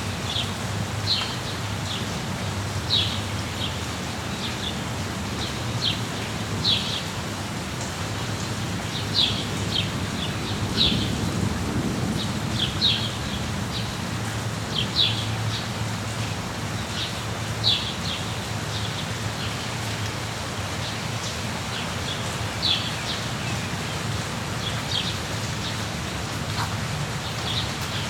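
Steady rain with a songbird chirping repeatedly, short high notes every second or two, over a low rumble that swells about halfway through.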